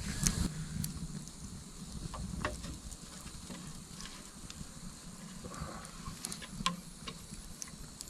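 Campfire crackling: irregular sharp pops and snaps of burning wood.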